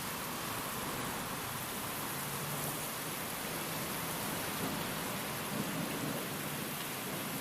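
Steady rain hissing evenly, with a faint low rumble in the middle.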